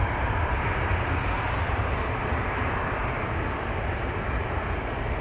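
Jet airliner engines heard as a steady rumble with a rushing hiss over it, holding level throughout.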